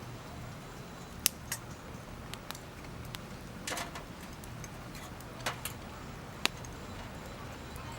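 Wood campfire crackling: irregular sharp pops and snaps, two louder cracks about a second in and near the end, over a steady low rumble.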